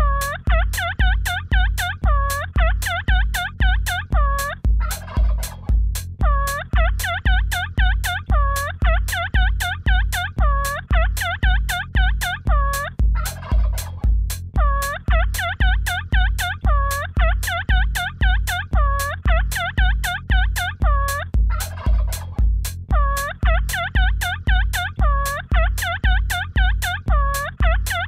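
Electronic dance track built from turkey gobbling, the rapid gobble notes repeating over a steady kick drum at about two beats a second. The gobbling breaks three times for about a second of noisy sweep.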